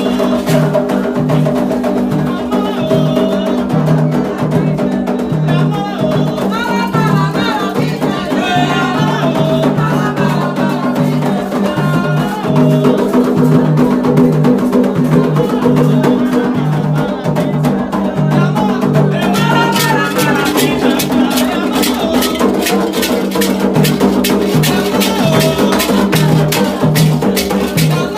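Candomblé ceremonial music: atabaque hand drums keep a steady repeating rhythm with shaken rattles, and voices sing a chant in stretches.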